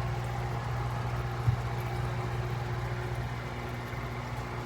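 Steady low machine hum, like a motor running, with one sharp knock about a second and a half in.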